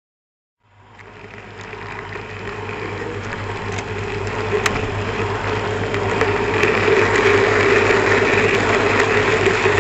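Steady mechanical hum and rushing rumble of a small model train running on track, fading in about a second in and growing steadily louder.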